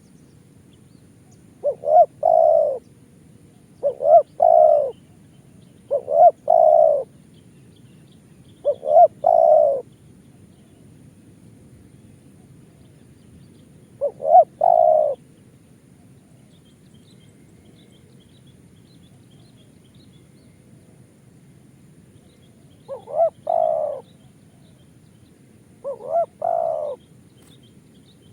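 Spotted dove (tekukur) cooing: short phrases of two quick notes and a longer last note, repeated about every two seconds at first and then with longer pauses, seven phrases in all. Faint high chirps of small birds come in between, near the middle.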